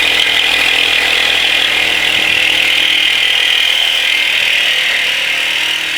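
Reciprocating saw cutting through the steel exhaust pipe of a Honda Civic to remove the muffler, running steadily at full speed.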